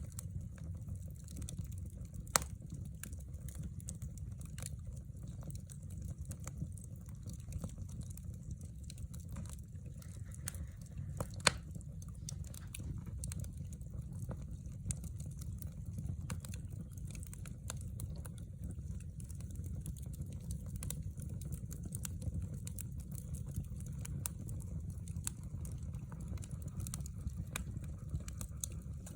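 Wood burning in a fireplace: scattered small crackles and snaps over a low steady rumble of flame, with two sharper pops, one about two seconds in and one near the middle.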